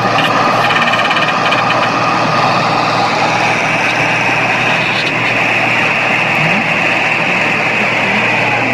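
Vehicle engine running steadily, with a steady high whine above it that grows stronger about three seconds in.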